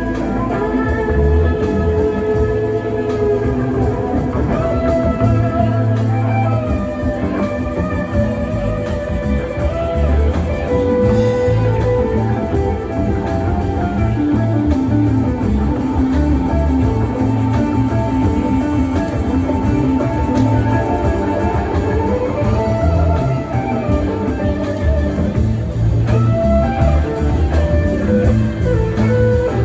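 A live rock band playing an instrumental passage, with an electric guitar line winding over bass and drums.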